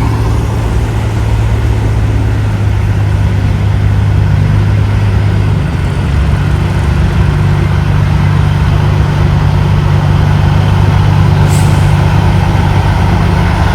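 Heavy diesel semi-truck engines running close by as big rigs roll past, their low engine note stepping up in pitch about halfway through. A brief hiss, typical of an air brake, near the end.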